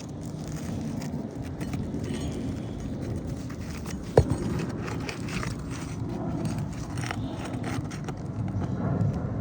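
Scraping and clicking of hand tools working fasteners loose from a roof shingle, with one sharp knock about four seconds in, over a steady low rumble.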